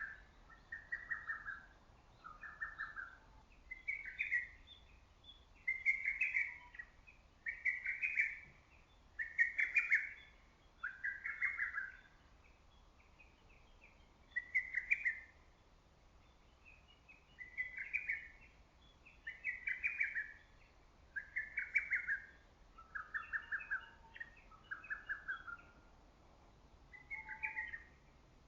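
Lesser cuckoo singing, repeating its loud call phrase about once a second in runs of several, with short pauses between the runs.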